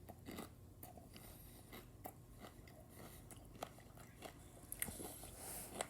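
A person chewing a crunchy peanut candy bar with the mouth close to the microphone: faint, irregular crackles of crisp pieces breaking between the teeth.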